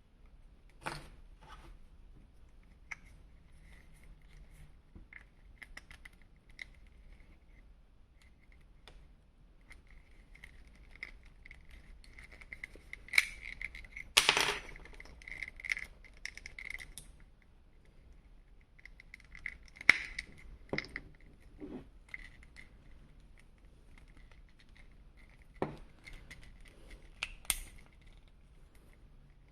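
Handling noises from small hard plastic pieces: scattered clicks, taps and scrapes at irregular moments, busiest about halfway through and again a little later.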